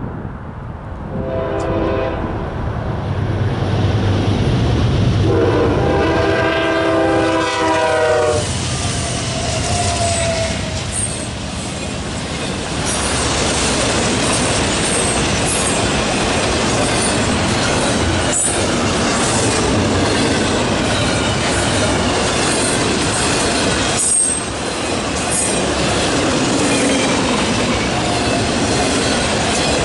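Diesel freight locomotive's horn sounds a short blast about a second in, then a long blast from about five to eight seconds, over the engine's low rumble. A piggyback intermodal freight train then rolls past: a steady loud rumble and clatter of flatcar wheels on the rails.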